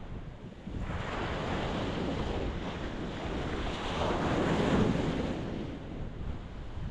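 Ocean waves breaking on a rocky shore: a wave washes in about a second in, swells to its loudest around the middle and eases off near the end. Wind rumbles on the microphone underneath.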